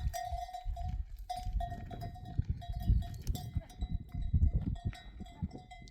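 A livestock bell ringing almost without pause, its single tone breaking off and coming back as the animal moves, over uneven low thumping and rumbling.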